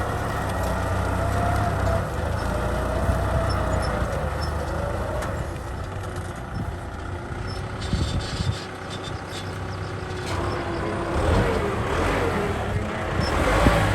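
Kubota M6040 tractor's four-cylinder diesel engine running steadily with a deep drone, while plowing a muddy field. A wavering higher tone rides over the drone, rising and falling near the end.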